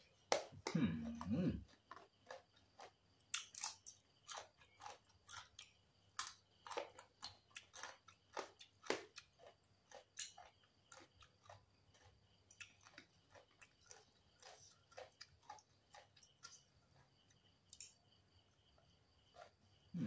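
A person chewing a mouthful of som tam (shredded green papaya salad) close to the microphone, with crisp, irregular crunches. A brief low hum from the eater comes about a second in.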